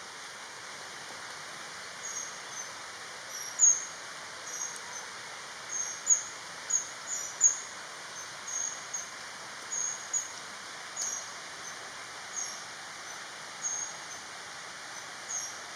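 Black-backed kingfisher (oriental dwarf kingfisher) calling: a series of short, very high-pitched, thin notes, some in quick pairs, repeated about once a second over a steady hiss.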